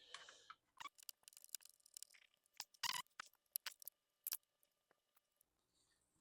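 Faint, scattered clicks and taps of a Lenovo T430 laptop's small plastic and metal parts being handled during disassembly, dying away about four and a half seconds in.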